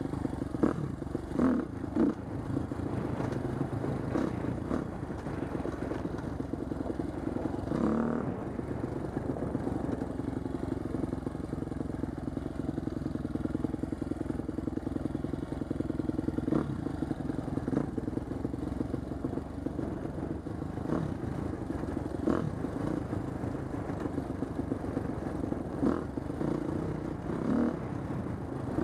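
2010 Husqvarna TC250 dirt bike's single-cylinder four-stroke engine running at a fairly steady pitch while riding, with scattered short knocks and clatter over it.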